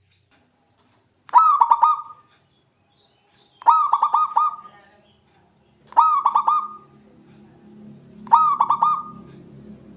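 Zebra dove (perkutut) cooing: four short phrases of quick, rapid notes, one every two seconds or so. A faint low rumble joins partway through.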